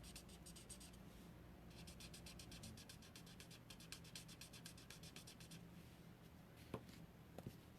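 Faint, rapid scratching of a blending marker's tip colouring on paper in quick back-and-forth strokes. The strokes pause briefly about a second in and stop about five and a half seconds in, followed by a couple of light taps near the end.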